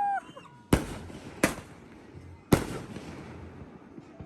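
Consumer fireworks going off: three sharp bangs about 0.7, 1.5 and 2.5 seconds in, each trailing off in a short echo.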